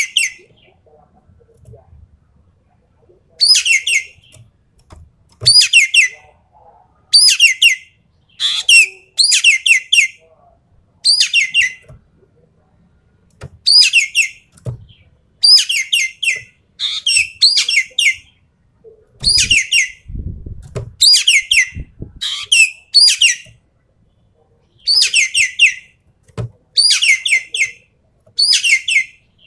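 Ekek keling calling in short salvos of rapid, sharp, high notes, one salvo every second or two, the 'tembakan' (rapid-fire) call. The first salvo comes after a pause of about three seconds.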